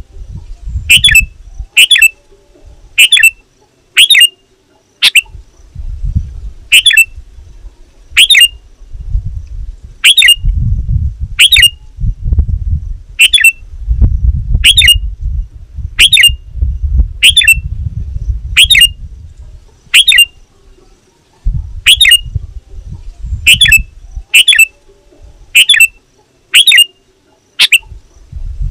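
Sooty-headed bulbul calling in an excited, rival-challenging way: a series of short, sharp, downward-sweeping calls repeated about once a second. A low rumble comes and goes underneath.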